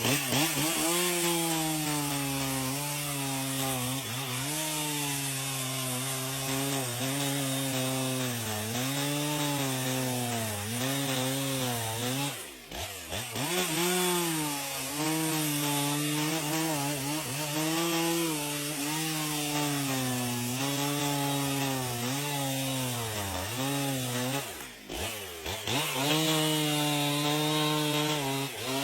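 Chainsaw cutting into wood, its engine note sagging and recovering under load every second or two, with two brief drop-outs about twelve and twenty-five seconds in.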